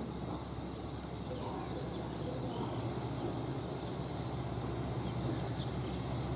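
Steady low hum of a train at the station, slowly getting louder, with faint voices in the background.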